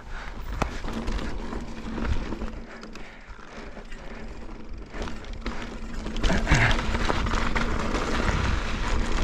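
Mountain bike being ridden over slickrock: tyres rolling on rock and wind rushing over the camera mic, with scattered knocks and rattles as the bike hits bumps.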